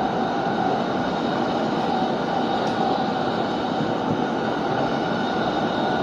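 Electric train running at speed: a steady rumble of wheels on rail with a few steady tones over it, heard from inside a carriage.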